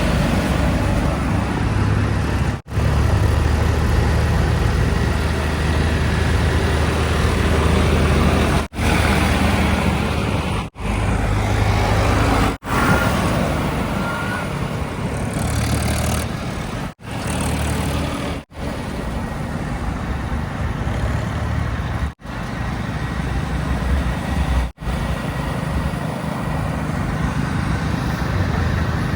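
Diesel engines of a backhoe loader and trucks running with a steady low rumble, broken by brief sudden gaps several times.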